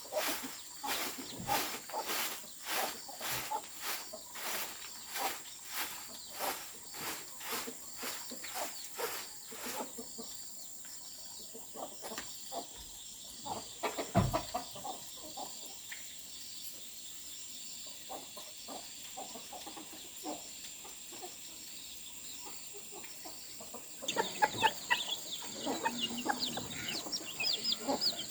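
Chickens clucking, loudest in the last few seconds. Before that, sharp strikes repeat about twice a second for roughly the first ten seconds, and a single heavier thump comes a little after halfway, all over a steady high-pitched whine.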